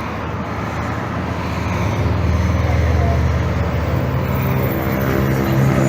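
Road traffic noise: a steady wash of passing vehicles, with a low, steady hum that grows louder from about two seconds in.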